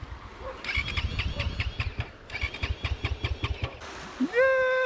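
A dirt bike's electric starter cranking the engine in two bursts of about a second and a half each, the engine not catching. Near the end a louder held tone rises in and runs on.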